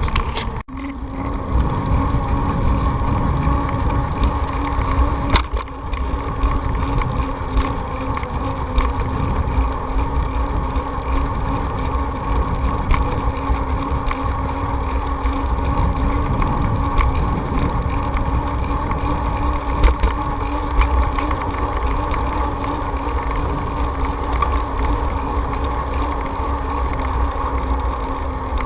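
Steady rush of wind and road noise from a moving bicycle, with a low rumble and a steady droning hum running through it. The sound drops out briefly about half a second in.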